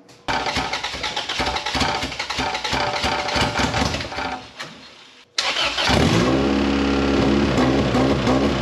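Honda B20 four-cylinder engine on its first start after the swap: the starter cranks it for about five seconds, then a moment later the engine catches and runs steadily. It is running on a P06 ECU.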